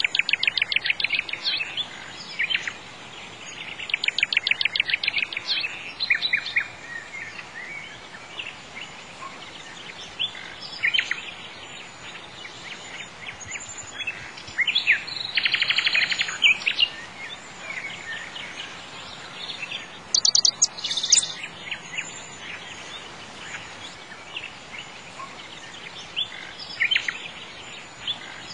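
Small songbirds chirping and singing in bursts of rapid trills, over a steady background hiss.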